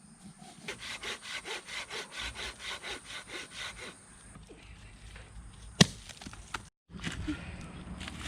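Hand saw cutting through firewood: a steady run of back-and-forth strokes, about four a second, for roughly three seconds. A single sharp crack comes near the six-second mark, then rougher wood-working noise.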